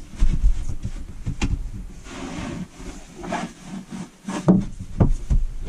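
Camper desk top being lowered and fitted into place to make a bed: rubbing and scraping as it moves, with several sharp knocks, three of them close together near the end as it settles.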